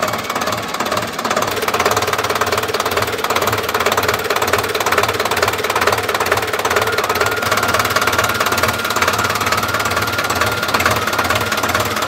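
Sonalika Tiger 60 tractor's diesel engine running steadily with a rapid, even clatter.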